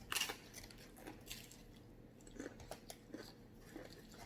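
Close-up eating sounds: a short crunchy burst just after the start, then soft chewing and small mouth clicks.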